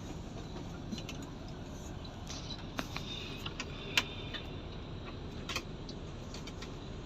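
Bus engine idling with a steady low rumble, with scattered light metallic clicks and taps; one sharp click about four seconds in.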